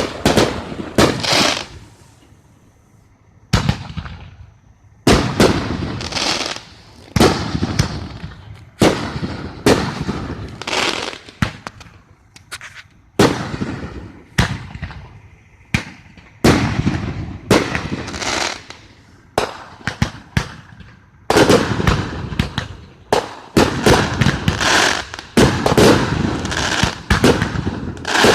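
Fireworks display: aerial shells bursting one after another in sharp bangs, each trailing off in a rumbling echo. A bang comes every second or two, with a short lull a few seconds in. Near the end the bursts come thick and almost without a break.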